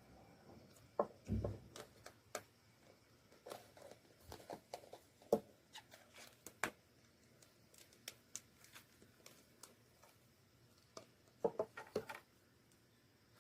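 Slime being worked by hand, giving faint scattered sticky clicks and crackles that come in clusters: one about a second in, a longer run in the middle and another near the end.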